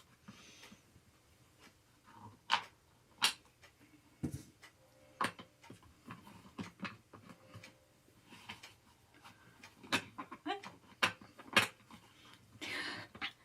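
Irregular clicks and knocks of gaming-chair parts and fittings being handled and fitted together during hand assembly, with a short rustle near the end.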